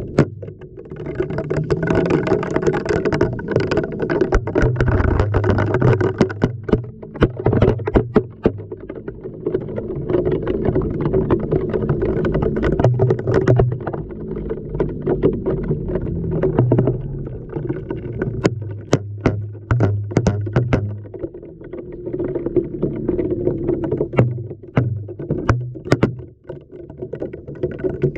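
Inside the drum of an LG washing machine during a wash: water sloshing and churning, with a low motor hum that swells and eases as the drum turns one way and then the other. Sharp clicks and knocks come from objects tumbling against the drum, in a cluster past the middle and again near the end.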